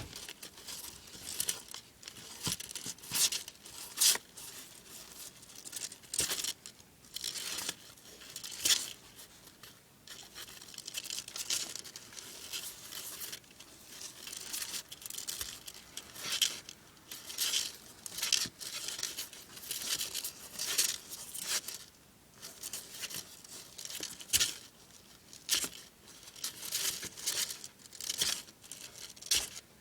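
Irregular crackly rustling and crunching as a baby savannah monitor catches and chews crickets, in short uneven bursts with brief pauses.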